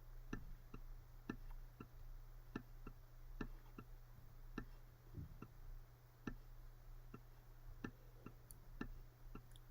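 Faint, irregular light clicks, about two or three a second, from a pen tapping on a writing surface as an equation is written out, over a low steady hum.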